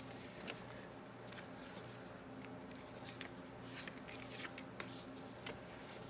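Faint paper rustles and small clicks as the pages of a handmade junk journal are handled and turned, over a steady low hum.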